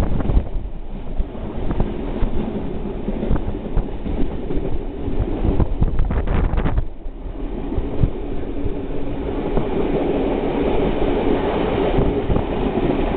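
Train running along the line, heard from an open carriage window: a steady rumble of wheels on the track with scattered clicks. A steady hum comes in about two-thirds of the way through.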